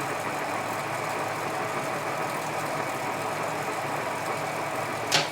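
Edgwick metal-turning lathe running steadily, its motor and gearing making an even hum. About five seconds in there is one sharp click, after which the running sound is a little quieter.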